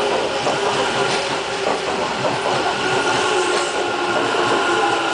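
Train running on the rails: steady wheel and track noise with a constant hum of steady tones over it.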